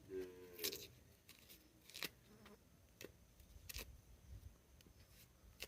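Faint, sparse knife strokes scraping and cutting the peel off cassava: about five short, sharp scrapes spread over a few seconds.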